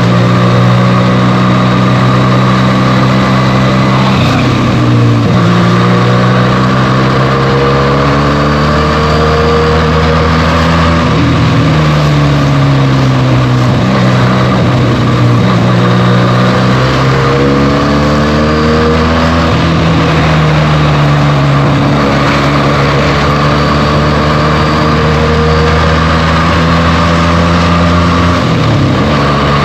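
Benelli TNT 300's parallel-twin engine through its stock exhaust, heard from the bike while riding. The engine note holds steady, then breaks and shifts in pitch several times as the revs rise and drop.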